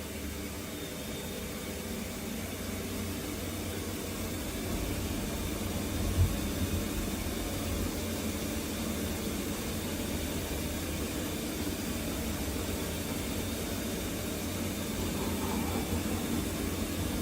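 CNC turn-mill machine running: a steady mechanical hum with an even hiss over it, and one short knock about six seconds in.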